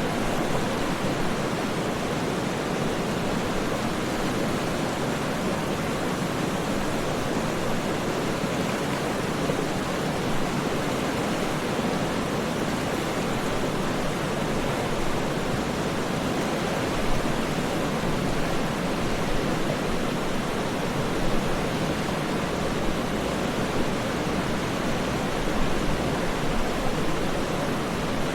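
Waterfall's steady rushing, an even roar of falling water with small splashes rising through it now and then.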